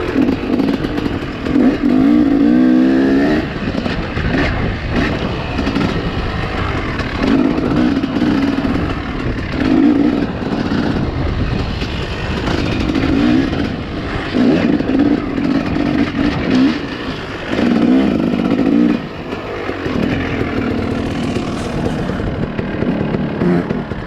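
Dirt bike engine ridden around a motocross track, its revs rising and falling in repeated bursts of throttle.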